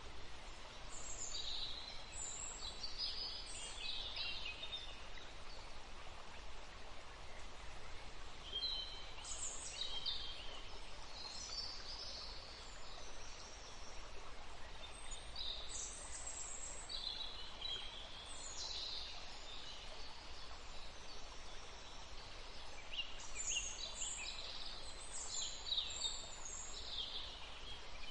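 Songbirds singing in several spells of high chirps and trills over the steady rush of a forest stream.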